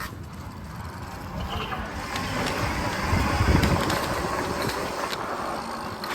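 Rumbling outdoor road noise, heavy in the low end, swelling about two seconds in.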